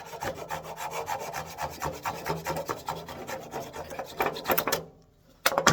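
Hand saw cutting through a walnut blank in quick, even strokes that stop a little before five seconds in. A short clatter of knocks follows near the end.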